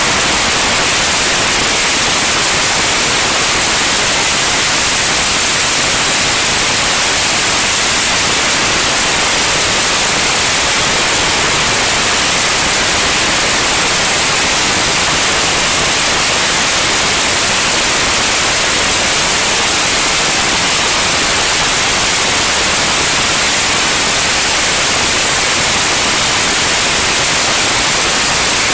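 Loud, steady hiss like static, unchanging throughout, with no engine tone or other distinct sound standing out.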